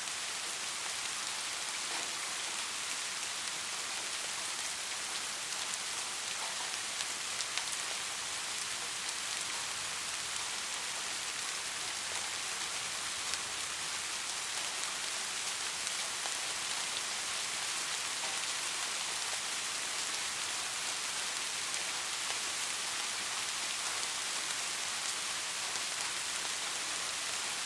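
Steady rain falling, an even hiss with many small drop impacts pattering on a surface.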